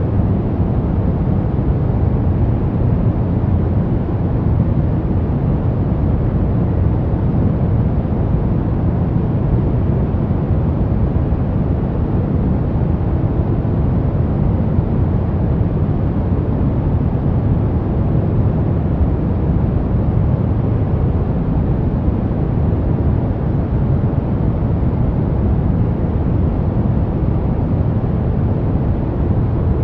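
Pink noise: a steady, even hiss, strongest in the low end and softer toward the top.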